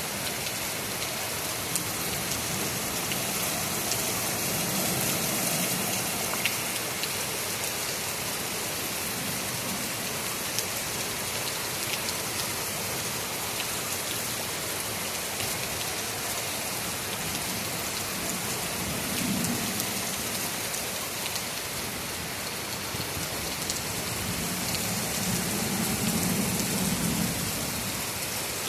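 Heavy rain falling steadily, with low thunder rumbling three times: a few seconds in, after about twenty seconds, and near the end.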